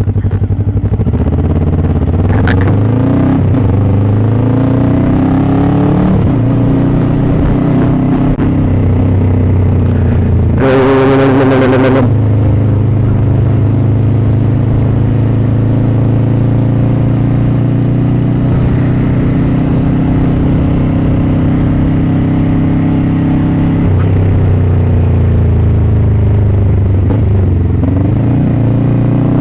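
Motorcycle engine running on the move, its pitch rising and falling as the bike speeds up and slows, then holding steady for about ten seconds in the middle. About ten seconds in, a separate loud pitched blast lasting about a second and a half sounds over it.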